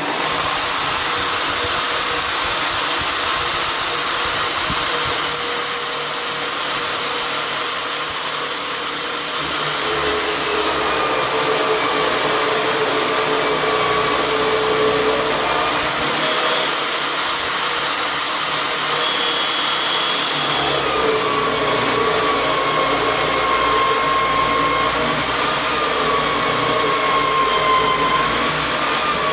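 Electric drill in a drill stand switched on and running continuously while boring a hole into timber. Its motor whine dips in pitch several times as the bit takes load and then recovers.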